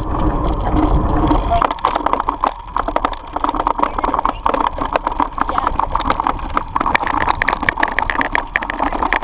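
Bicycle rattling and clattering over rough ground on a fast ride, with quick irregular knocks throughout. Wind buffets the microphone for the first second or so.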